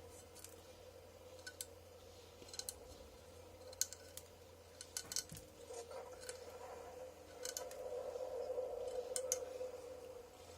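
Scattered sharp light clicks of hand tools at work, over a steady hum that grows louder between about six and ten seconds in.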